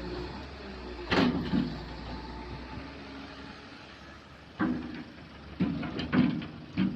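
Kobelco excavator at work: its engine runs steadily, with a sharp knock about a second in and a string of knocks and clanks in the last two and a half seconds.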